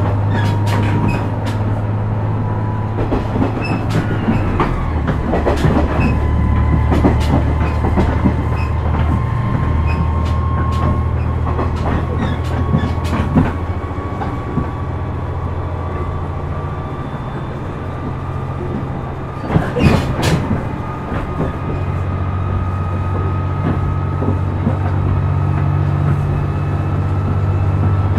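KiHa 126 series diesel railcar running, heard from inside: a steady diesel drone, clusters of wheel clicks over rail joints (the loudest about twenty seconds in), and a thin whine that slowly rises in pitch.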